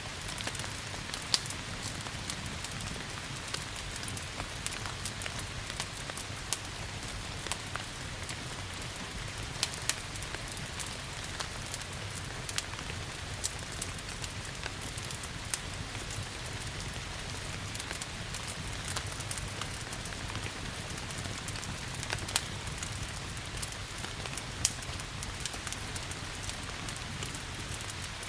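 Steady rain falling, mixed with a wood fire crackling in a fireplace: frequent sharp, irregular pops and snaps over an even hiss and a low steady rumble.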